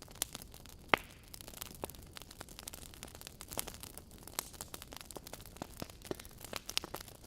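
Wood fire crackling: a soft hiss of burning logs with irregular sharp snaps and pops, the loudest pop about a second in.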